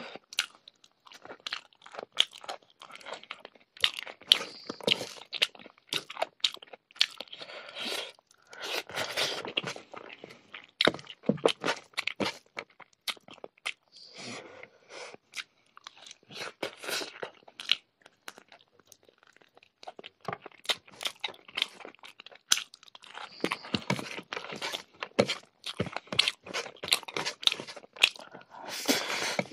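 Close-miked chewing and crunching of mouthfuls of rice and curry with crisp raw vegetables, full of irregular wet clicks and smacks of the mouth, pausing briefly now and then between bites.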